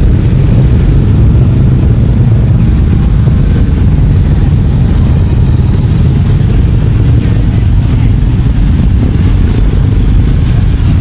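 A stream of motorcycles riding past, their engines making a loud, steady drone.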